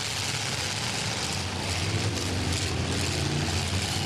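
Demolition derby cars' V8 engines running under a dense noisy haze, with engines revving up from about a second and a half in.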